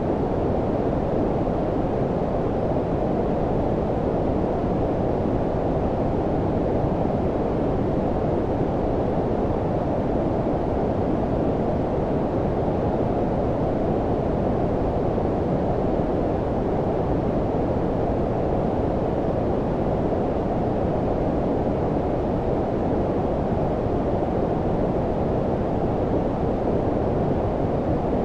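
Steady low-frequency noise of the brown-noise kind, a deep even rumble-hiss with little above the low mids, unchanging throughout.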